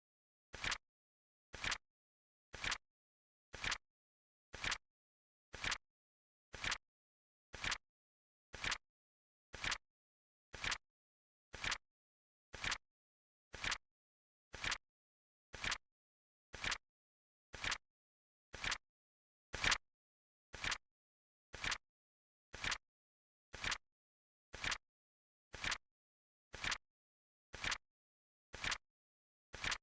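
Flip clock timer's flip sound effect: a short, crisp click once a second, evenly spaced, with one click a little louder about twenty seconds in.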